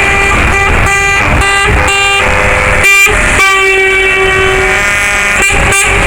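Lorry air horns blasting over running truck engines: a few short toots, then one long blast.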